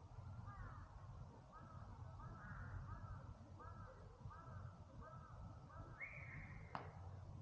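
A bird calling in a quick series of short, arched notes, about two a second, over a faint low background rumble. It ends with one higher note and a single sharp click.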